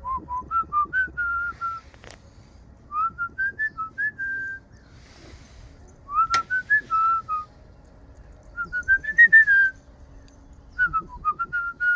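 A person whistling in five short phrases, each a run of quick single notes that step upward in pitch, with short pauses between the phrases.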